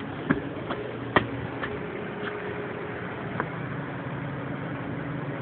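Exhaust fan running with a steady hum, a few sharp clicks in the first couple of seconds.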